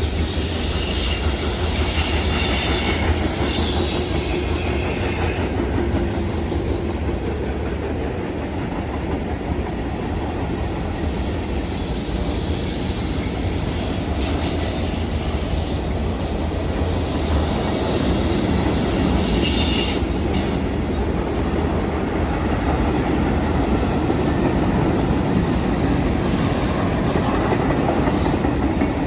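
A train passing close by on the rails, a steady rumble and rolling noise with high-pitched wheel squeal that comes in during the first few seconds and again about two-thirds of the way through.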